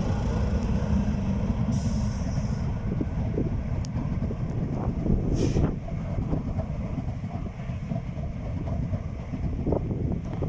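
Freight train rolling past: a steady low rumble of wheels and wagons on the rails, with scattered brief knocks.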